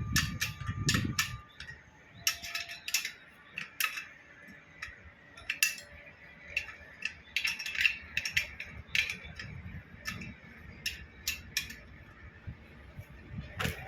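Metal pump parts clinking and knocking together as they are handled and fitted, in irregular sharp taps with a brief metallic ring, several a second at times.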